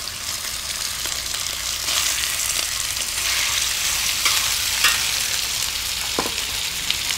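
Raw chicken pieces sizzling and frying in hot vegetable oil on a steel plow-disc cooker (discada), a steady crackling hiss, with a few sharp clicks.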